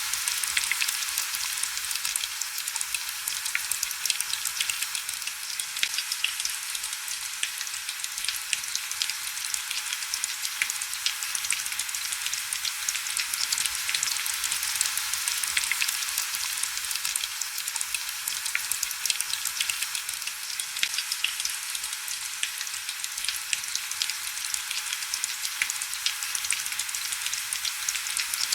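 Heavy rain falling steadily: a dense, even hiss full of small drop ticks, with hardly any low rumble.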